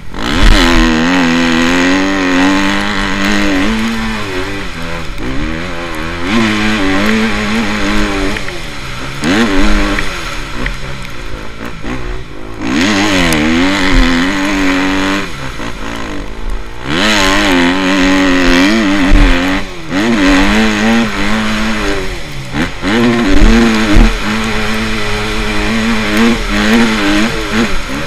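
Motocross bikes racing on the track, their engines revving up and falling back over and over as the riders work the throttle and shift through gears.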